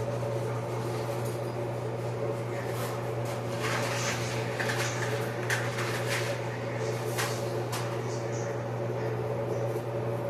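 Steady appliance hum with a run of sharp clicks and crackles between about three and a half and eight seconds in: dry spaghetti being broken and put into a pot of sauce.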